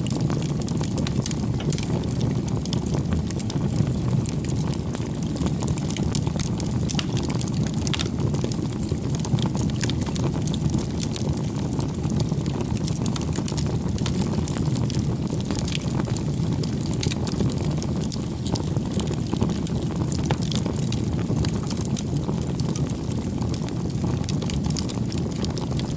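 Wood campfire burning: a steady low rumble of flames with many small, irregular crackles and pops from the burning wood.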